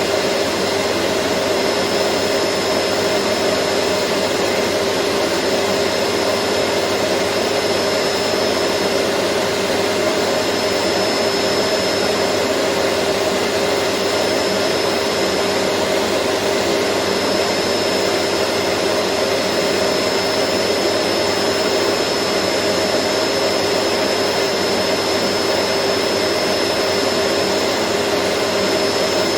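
Vacuum cleaner motor running steadily, a constant whooshing roar of air with a steady hum and a faint high whine over it, unchanging throughout.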